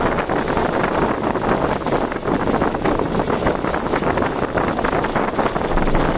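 Steady rush of wind noise over the running sound of a car driving through typhoon winds, fluttering slightly in level without letting up.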